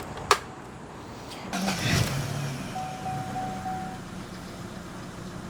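Car engine being started after a fresh oil change: a click, then about a second and a half in it catches with a brief rev and settles into a steady idle. A short beeping tone sounds around three seconds in.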